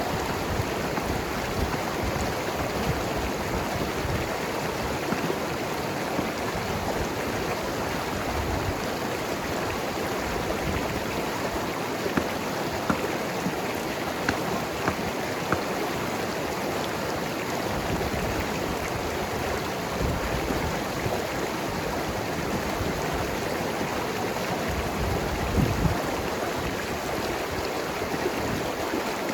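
Mountain river flowing and gurgling over rocks, a steady rush of water with small splashes and bubbling.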